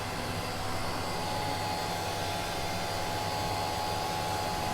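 Steady machinery hum with a fixed whining tone over an even noise, with no change in level.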